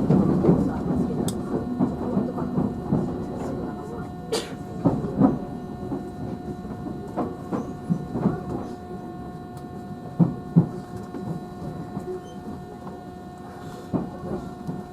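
JR Central 311-series electric multiple unit slowing at low speed as it pulls into a terminal station. The running rumble fades while a steady whine holds, and the wheels knock over rail joints and points several times at uneven intervals.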